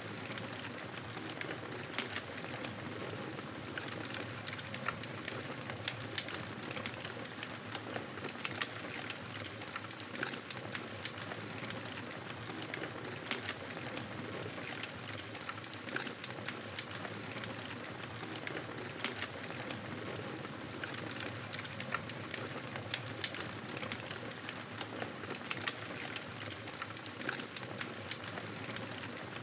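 Fire in a fireplace crackling steadily: a continuous soft hiss with frequent irregular sharp pops and snaps.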